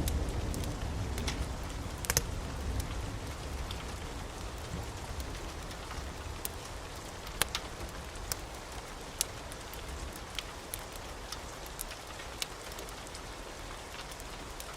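Wood fire crackling in a fireplace: scattered sharp pops and snaps at irregular times over a soft steady hiss. A low rumble fades away over the first few seconds.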